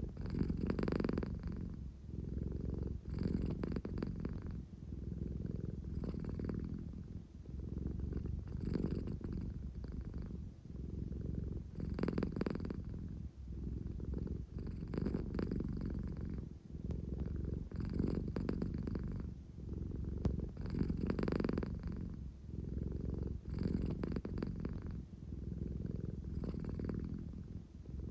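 American Shorthair cat purring steadily, the purr swelling and easing in a regular rhythm about every three seconds as she breathes in and out.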